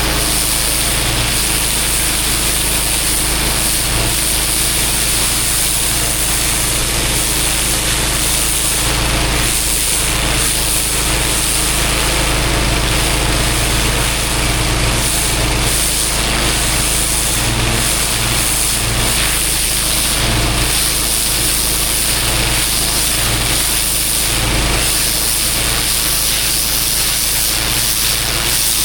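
Engine-driven pressure washer running steadily, its jet spraying water onto block paving with a constant hiss over the engine hum.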